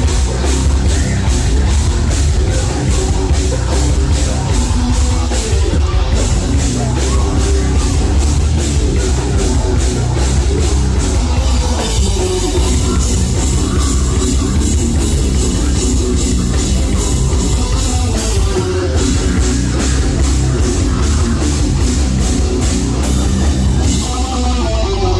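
Live heavy metal band playing at full volume: distorted guitars and bass over driving drums, with a steady, fast pulse of drum and cymbal hits.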